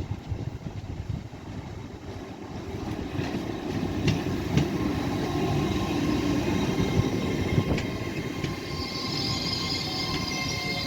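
A train running past on the track. Its rumble builds from about two seconds in, with a few sharp clicks of wheels over rail joints, and thin steady high tones and a hiss come in near the end.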